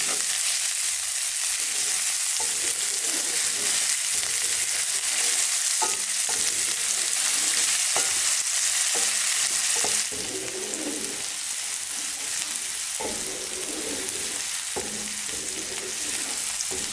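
Chopped onions frying in hot lard in a pan, a steady sizzle, with a utensil stirring them and knocking against the pan now and then. The sizzle gets a little quieter about ten seconds in.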